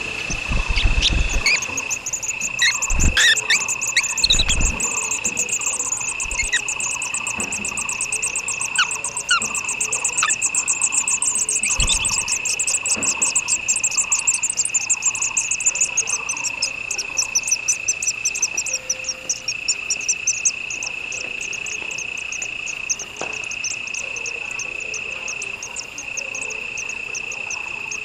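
Night-time-style chorus of insects: one high, steady, unbroken trill and a faster pulsing buzz above it, with a lower call repeating about once a second. Short bird chirps come and go in the first half, and a few dull low thumps sound in the first dozen seconds.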